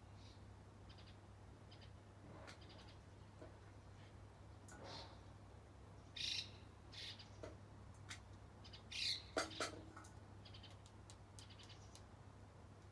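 Small wild birds chirping: scattered short calls and faint quick ticking notes, a few louder chirps around the middle. A faint steady low hum lies underneath.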